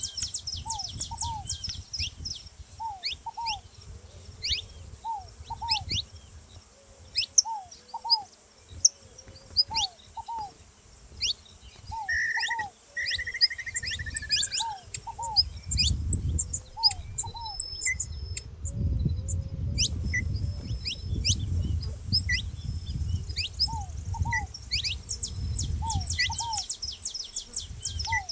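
Saffron finches calling with many quick, sharp high chirps, while a ground dove gives lower notes in pairs, repeated every second or two. A low rumble runs underneath.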